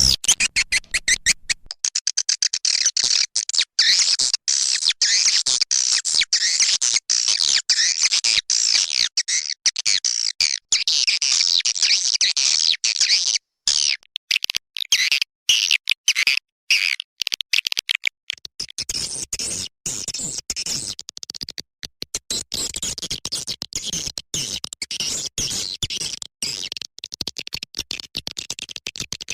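Swiftlet calling-sound recording: dense, rapid twittering and chirping of edible-nest swiftlets, cut by many brief gaps, the lure sound played to draw swiftlets into a bird house. A short break comes about halfway through.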